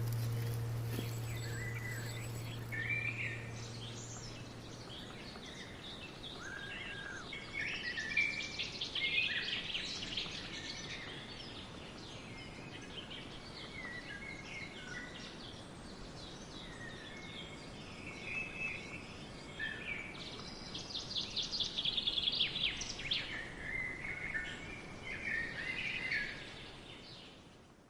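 Small birds chirping and singing, with short calls throughout and a rapid trill a little after the twenty-second mark, over a faint steady hiss. A low held note fades out over the first few seconds.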